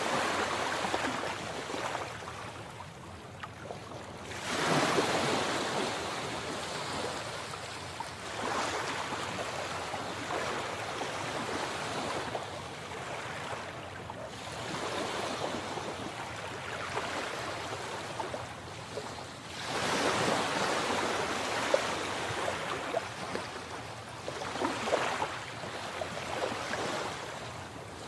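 Sea waves breaking and washing ashore, rising into a fresh surge every few seconds; the strongest breaks come about five seconds in and again about twenty seconds in.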